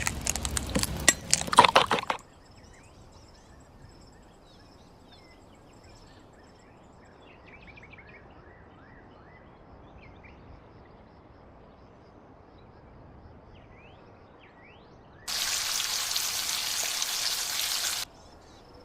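Outdoor cooking sounds: about two seconds of clinking and knocking. Then faint insect and bird chirps over quiet ambience, and near the end about three seconds of steady hissing that starts and stops abruptly.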